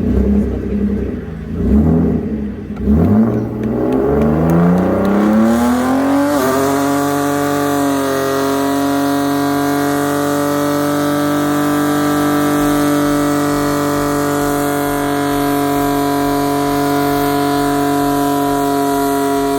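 Car engine in a burnout: a few uneven revs, then a steady climb to high revs that is held at a constant pitch for about thirteen seconds before it drops off at the very end.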